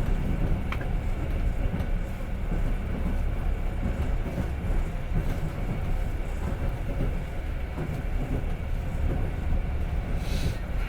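Passenger train running along the track, heard from inside the carriage: a steady low rumble of the wheels on the rails, with a few faint clicks and a brief hiss near the end.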